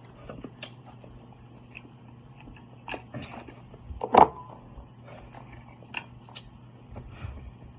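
A person eating seafood close to the microphone: chewing and biting, with scattered sharp clicks and smacks, the loudest about four seconds in. A faint steady low hum runs underneath.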